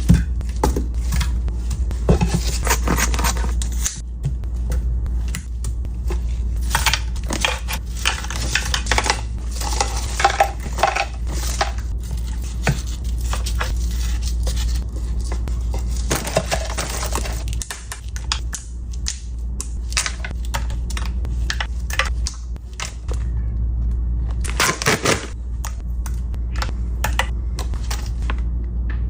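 Eating at a meal: irregular crunching and crinkling with clinks of tableware, over a steady low hum.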